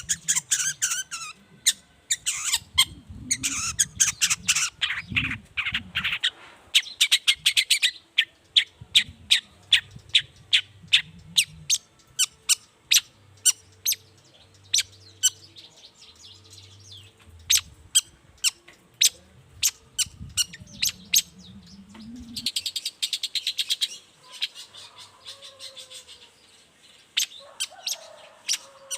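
Long-tailed shrike (cendet) calling: harsh chattering bursts at the start and again a little after 22 seconds. Between them is a long run of sharp, repeated ticks, about two to three a second.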